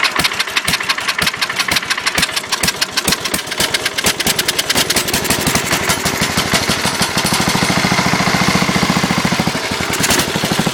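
Old Sears Suburban lawn tractor's small gasoline engine running unevenly, its firing irregular at first, then faster and steadier later on before changing again near the end. The owner thinks the rough running means the carburetor needs a rebuild.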